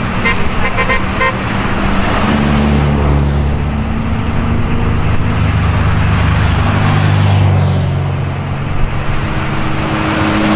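Vintage race car engines running loud as cars go by in a line, the sound swelling and easing as they pass. A car horn gives about four short toots in the first second and a half.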